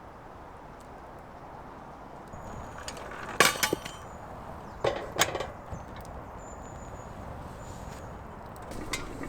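Camp cookware being handled: a quick cluster of sharp clinks and knocks about three and a half seconds in, then two more knocks about five seconds in, over a steady low hiss.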